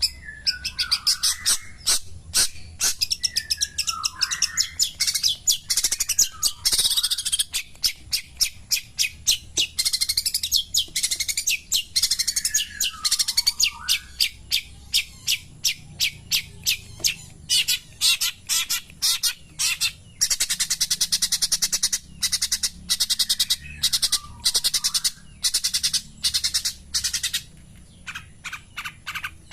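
Long-tailed shrike (cendet) singing: a rapid, continuous run of short, sharp high chattering notes, with now and then a downward-sliding squeaky note mixed in.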